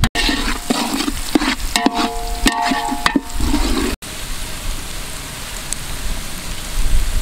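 Chopped vegetables (onion, carrot, chilli, capsicum) frying in oil in a large metal pot, stirred with a metal ladle that clicks and scrapes against the pot with short ringing metallic tones in the first few seconds. From about four seconds in, a steady sizzle.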